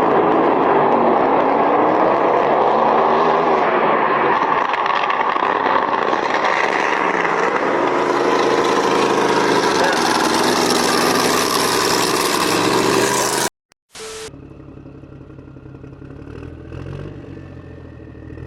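Vehicle engine running loud under a heavy rushing noise, its pitch rising and falling, until a sudden cut about thirteen seconds in. After the cut a quieter engine hum continues.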